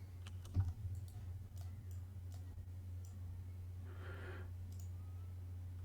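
Faint scattered clicks over a steady low hum, with a short soft breath-like sound about four seconds in.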